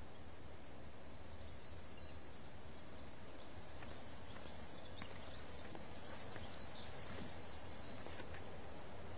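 Steady faint background hiss with a few high, quick bird-like chirps, once about a second and a half in and again in a run of several between six and eight seconds in.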